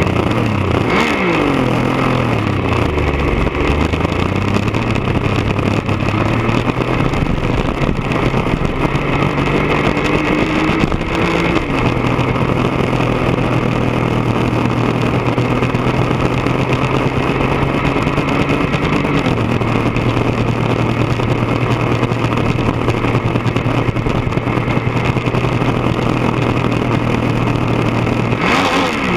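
1999 Triumph Daytona 955i's three-cylinder engine running through a D&D aftermarket exhaust on the move. The engine note drops and climbs again in the first few seconds, then holds a steady pitch, as at a constant cruising speed.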